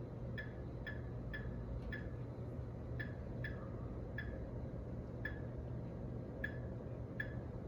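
A steady low hum with about a dozen short, sharp high-pitched ticks at uneven intervals.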